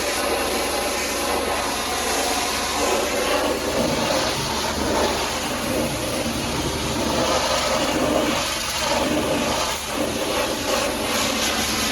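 Pressure washer's high-pressure water jet spraying onto a truck: a steady rushing hiss of water.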